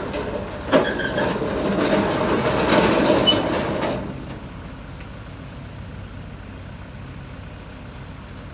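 Heavy diesel machinery idling steadily, with a loud hissing rush that lasts about three seconds near the start and then cuts off, leaving the engine hum.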